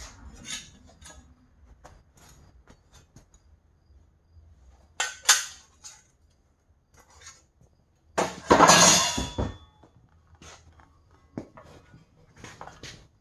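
Metal pieces clinking and clanking as they are handled: scattered light clinks, a sharp clank about five seconds in and a longer, louder clatter near nine seconds.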